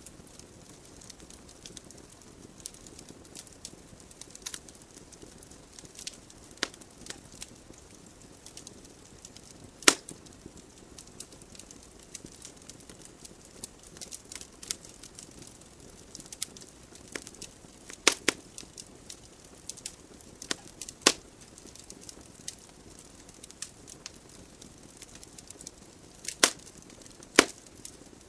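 Wood logs burning in a fireplace: irregular sharp crackles and pops over a soft, steady hiss of flame. A few louder pops stand out, two of them close together near the end.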